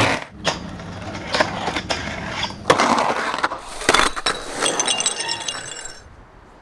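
Skateboard clatter: a series of sharp clacks and impacts over rough rolling noise, followed by a ringing metallic clink that fades out about six seconds in.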